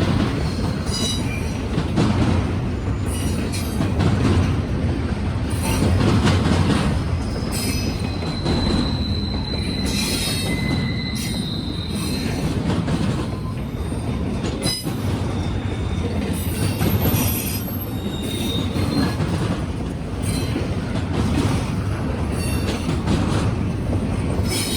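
Norfolk Southern freight train rolling past, its cars making a steady rumble. High thin wheel squeals rise over it for a few seconds from about 8 s in, and again briefly later.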